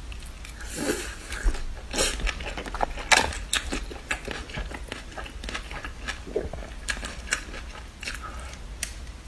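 Close-miked eating: a person biting and chewing a mouthful of leafy greens, with crisp wet crunches at irregular intervals.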